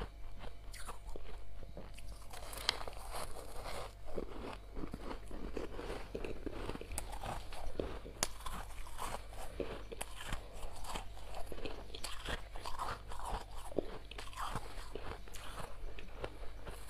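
Soft freezer frost being bitten and chewed close to the microphone: repeated crisp, crackly crunches one after another, over a steady low hum.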